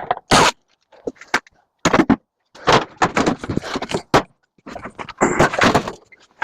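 Metal parts clattering, scraping and knocking in irregular bursts as a scrap microwave is pulled apart by hand.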